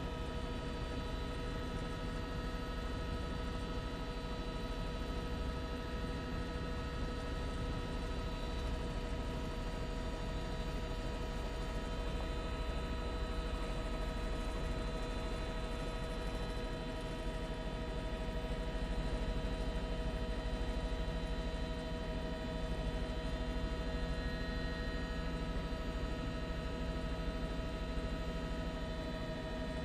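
Steady drone inside a helicopter cabin, the engine and rotor noise heard as a constant hum holding several fixed pitches, with no change throughout.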